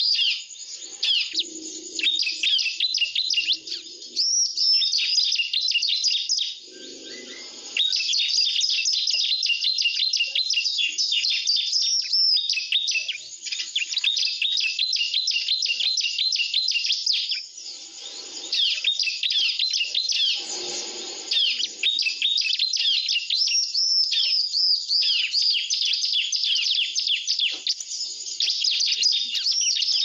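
Bar-winged prinias (ciblek) twittering: rapid, high-pitched chirping phrases that run on almost without a break. This is the ciblek lure song used to draw the birds onto birdlime sticks.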